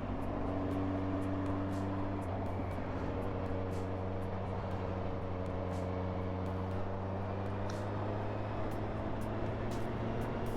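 Kawasaki motorcycle engine running steadily at cruising speed on the road, a constant drone under the rush of road and wind noise.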